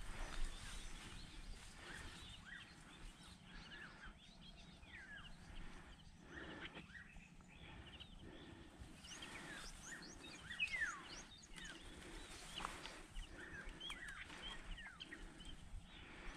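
Faint outdoor ambience with birds calling: many short, high chirps that slide down in pitch, coming more often in the second half.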